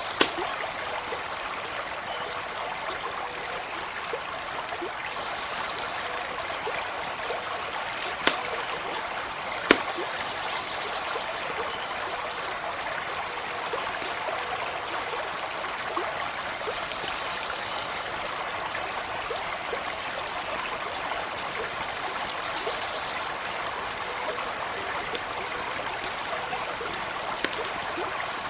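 Small stream running steadily over stones, with a few sharp pops from a campfire crackling, the loudest about eight and ten seconds in.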